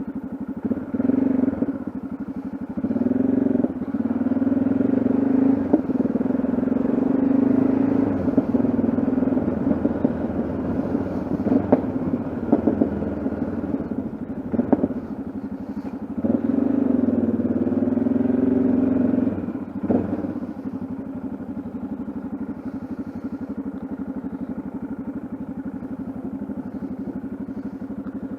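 Yamaha XT660Z Ténéré's single-cylinder engine running on the move, swelling and easing as the throttle opens and closes, with a few short knocks. About two-thirds of the way through it settles to a quieter, steady note.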